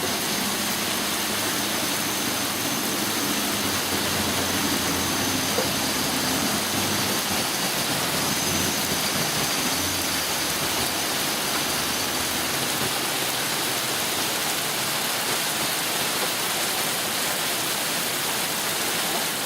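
Heavy rain falling steadily, with the low engine rumble of a truck driving through the flooded street, fading out about two-thirds of the way through.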